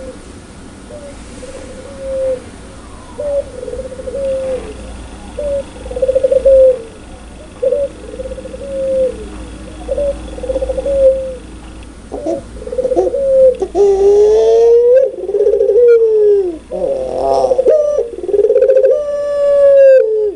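Puter pelung, a domestic ring-necked turtle dove, cooing: short coos about once a second at first, then from about twelve seconds in longer, louder coos run together in its rolling 'laughing' call. Higher, thinner bird calls sound over them near the end.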